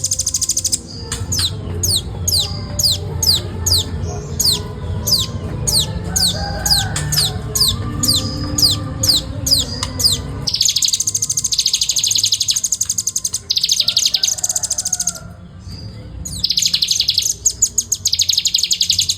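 Velvet-fronted nuthatch calling: a string of sharp, high notes, each falling in pitch, about two a second. About halfway through it breaks into dense, very fast chattering trills, with a short pause between two bursts. A low hum sits underneath during the first half.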